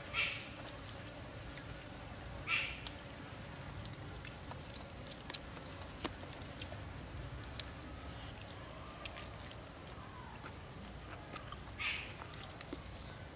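A person biting, tearing and chewing raw duck meat: small wet mouth clicks throughout, with three short, louder sounds near the start, about two and a half seconds in, and near the end.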